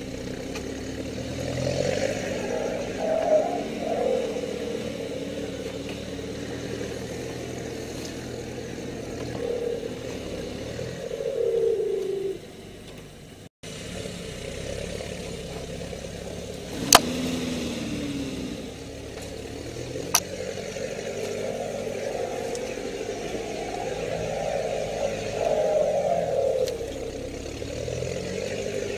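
Off-road 4x4 engine running at crawling pace, its pitch rising and falling with the throttle. Two sharp knocks come past the halfway point, and the sound cuts out for a moment near the middle.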